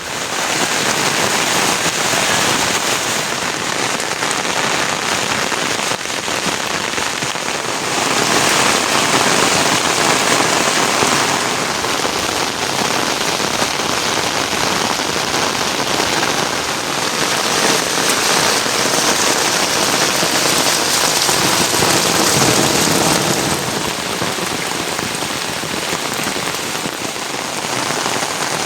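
Heavy rain falling: a loud, steady hiss of rain on surfaces, swelling a little louder at times.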